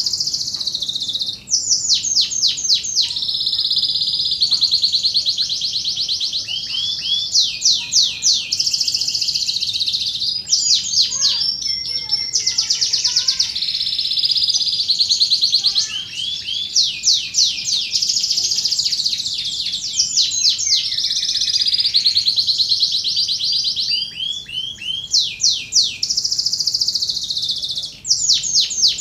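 Domestic canary singing a long, continuous song of rapid trills and rolling tours, high-pitched, with only brief breaks between phrases; a contest-style canary song used as a training recording for other canaries.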